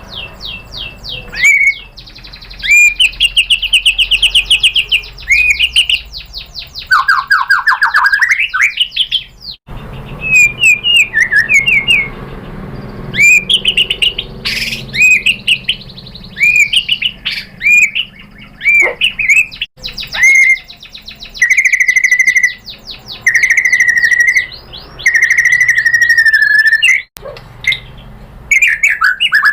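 White-rumped shama singing loudly and continuously: fast rattling trills, sharp rising chirps and long whistled notes. The song breaks off abruptly three times, as edit cuts between phrases.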